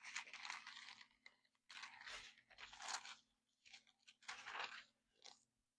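Thin Bible pages being turned: a few soft, irregular paper rustles over a faint steady hum.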